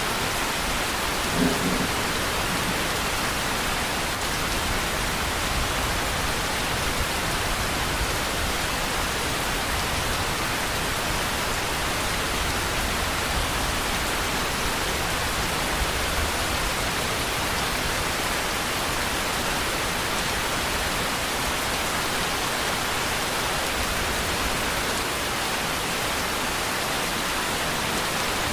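Steady rain falling as a dense, even hiss, with a low rumble of distant thunder underneath. A short, louder sound stands out about a second and a half in.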